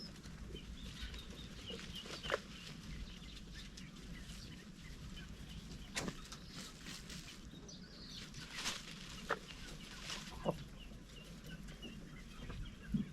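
Chickens clucking softly, with faint high chirps and a few scattered sharp knocks.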